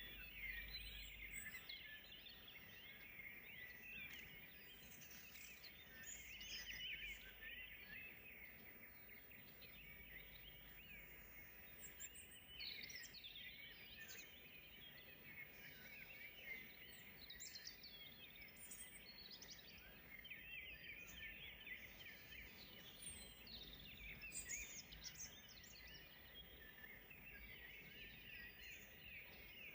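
Faint chorus of many songbirds singing together: a dense, continuous twittering with scattered higher, sweeping calls standing out now and then.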